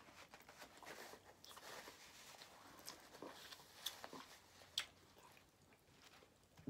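Faint chewing and mouth noises close to the microphone, with a couple of sharp clicks about four and five seconds in.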